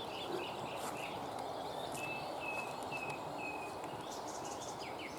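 Songbird calling over steady outdoor background noise; about two seconds in it gives a run of four or five short, clear, evenly spaced notes.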